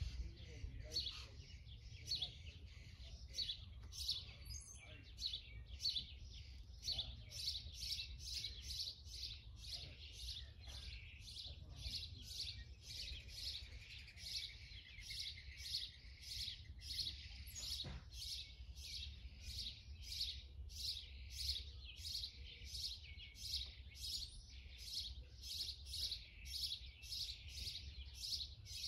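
A bird chirping over and over in a steady rhythm, about two short high chirps a second, over a low steady rumble.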